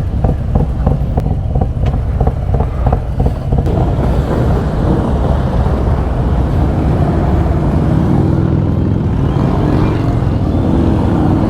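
Motorcycle engines running, Harley-Davidson V-twins among them, with a fast run of evenly spaced engine beats for the first few seconds.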